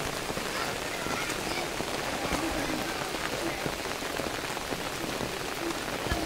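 Heavy rain falling steadily on a flooded dirt yard and its standing water, an even, unbroken hiss.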